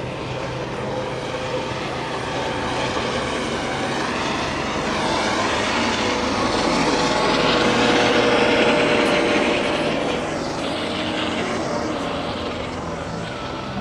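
Aircraft passing overhead, its engine growing louder to a peak about eight seconds in and then fading.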